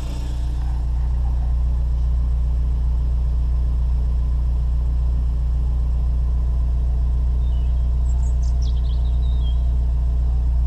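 Honda S2000's engine idling with a steady low hum, heard from inside the open-top cabin.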